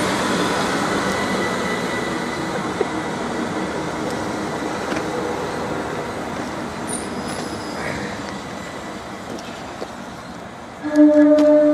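Train's running noise on the line, fading steadily as it draws away. A short, loud single-pitched horn-like tone sounds near the end.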